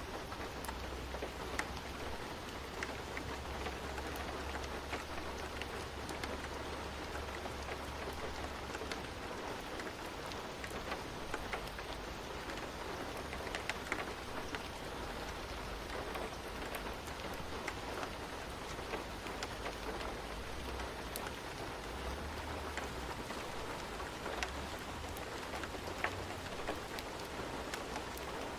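Steady rain falling, an even hiss with many separate drop ticks scattered through it. A low rumble sits underneath, swelling for several seconds at the start and again about three-quarters of the way in.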